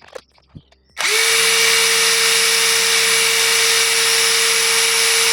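Dagmara DTD173 cordless impact driver starting up about a second in and running free at a steady speed, a loud, even whine with no hammering, after a couple of light clicks.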